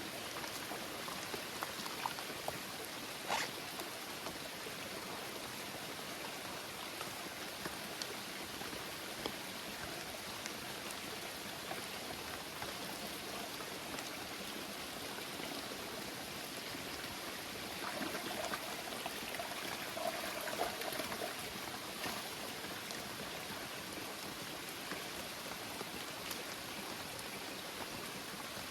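Heavy rain falling steadily in forest, a continuous hiss with scattered drips and a few sharp taps, one about three seconds in. It swells slightly about two-thirds of the way through.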